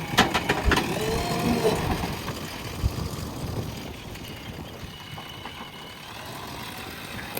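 JCB backhoe loader's diesel engine running, with a cluster of sharp knocks and clatter from the machine at work in the first two seconds, then a quieter steady run.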